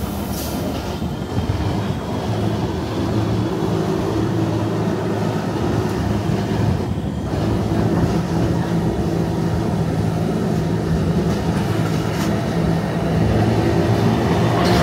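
Electric rack railway train on the Wengen–Lauterbrunnen line (Wengernalpbahn) running downhill, a steady rumble with a low droning hum that grows a little louder near the end.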